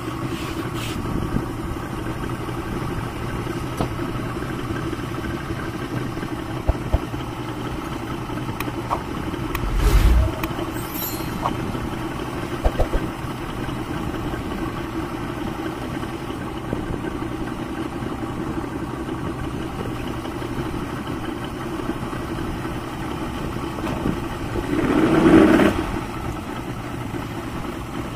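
Yamaha 200 hp two-stroke outboard engines idling with a steady hum, with a low thump about ten seconds in and a brief louder swell near the end.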